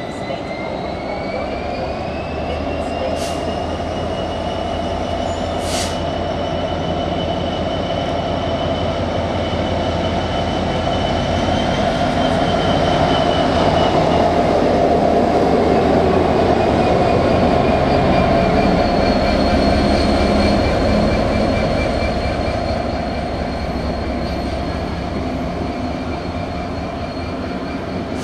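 A GB Railfreight Class 66 diesel locomotive passes close by. Its two-stroke V12 engine hums, and the sound builds to its loudest about halfway through as the cab goes past. After that come the rolling wheels of the barrier vehicles, with thin high-pitched squeals from the wheels on the rails and two brief clicks early on.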